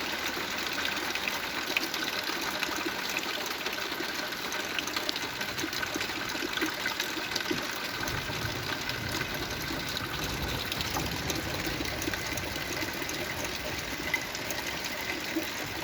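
Heavy rain falling steadily, a dense hiss with many small drop ticks and splashes. A low rumble swells for a few seconds about eight seconds in.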